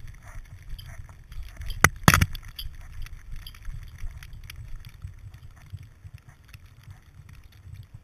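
Muffled low rumble and scattered light clicks from a jostled GoPro Hero 2 action camera in its waterproof housing, with two sharp knocks about two seconds in.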